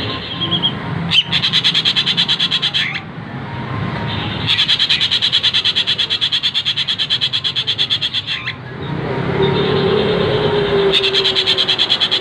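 Bird giving fast, rattling chatter calls at about ten notes a second, in three bouts: a short one about a second in, a long one of about four seconds in the middle, and another starting near the end.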